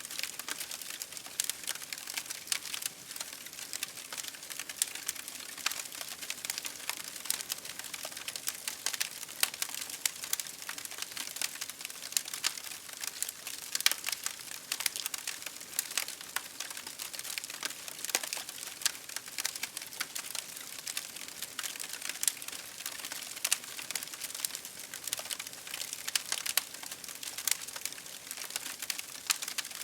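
Campfire crackling: a wood fire popping and snapping with many irregular sharp crackles over a steady hiss.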